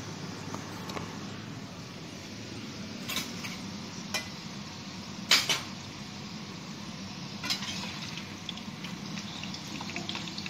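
Potato chips sizzling steadily as they fry in oil. A few sharp clinks of plates and cutlery break in, the loudest a double clatter about five seconds in.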